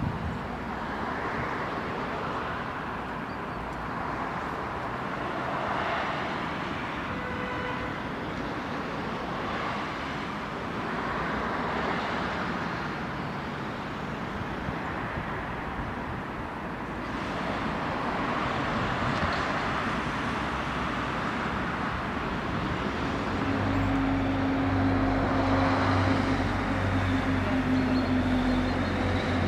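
Urban road traffic: cars passing in swells of tyre and engine noise over a steady hum. Near the end a low, steady engine drone comes in and becomes the loudest sound.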